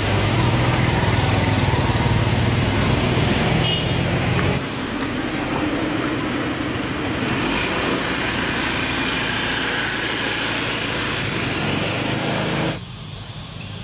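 A motor vehicle engine running steadily with a low hum; the sound changes abruptly about four and a half seconds in and again near the end.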